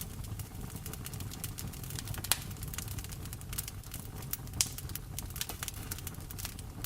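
Wood fire in a fireplace crackling, with many small irregular pops and two louder snaps, one about two seconds in and one about four and a half seconds in, over a low steady rumble.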